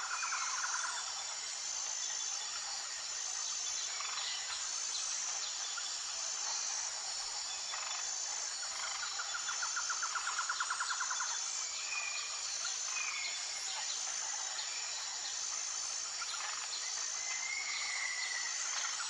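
Nature ambience: a steady high-pitched insect chorus pulsing about once a second, with a buzzy trill lasting a couple of seconds midway and short bird whistles here and there.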